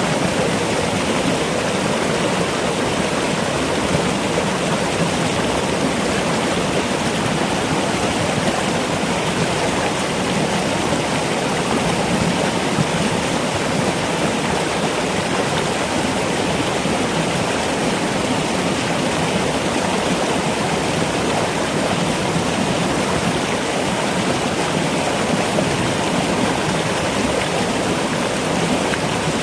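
Steady, even rush of running water, as of a forest stream, with no other sounds standing out.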